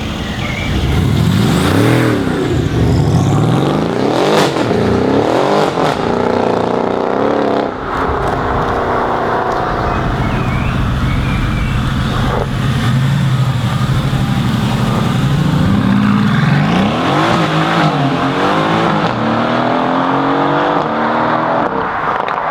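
Mercedes-AMG car's engine revving hard, its pitch rising and falling in several revs. In the middle it holds a steady high pitch for several seconds, then revs up and down again near the end.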